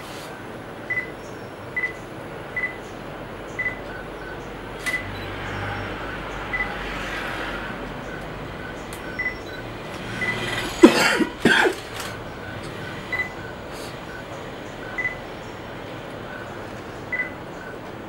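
Outdoor bird calls over a steady background hiss: a short, high, beep-like note repeats about once a second. About eleven seconds in comes a brief, louder burst of calls that fall in pitch.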